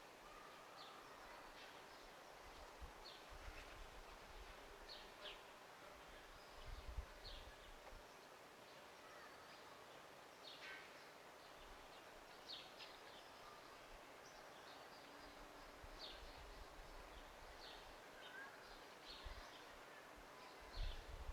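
Faint, scattered short high chirps of small birds over quiet outdoor ambience, with a couple of brief low rumbles, one about a third of the way in and one at the end.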